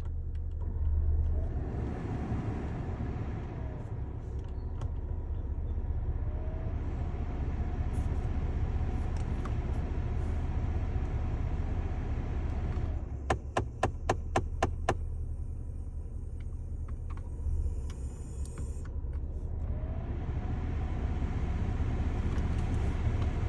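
Air conditioner running with a steady low hum and rushing noise: the unexplained noise its owner wants identified. About halfway through comes a quick run of about eight sharp clicks over two seconds.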